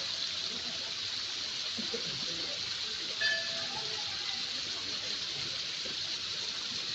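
Steady rushing of a waterfall, with one short high-pitched call about three seconds in.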